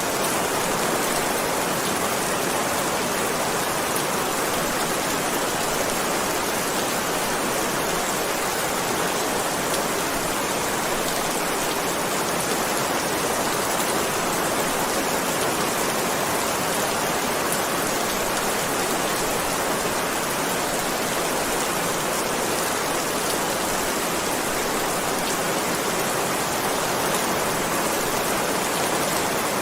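Heavy rain falling steadily, an even dense hiss of countless drops with no single drop standing out.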